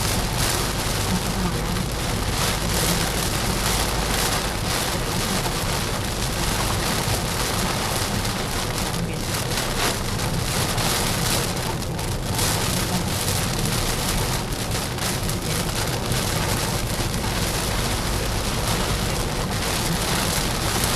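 Heavy rain falling on a car, a steady dense hiss with a low hum underneath.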